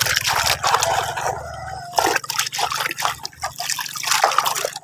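Water splashing and dripping in quick, irregular bursts as a muddy plastic toy gun is washed by hand. A low hum underneath stops about three and a half seconds in.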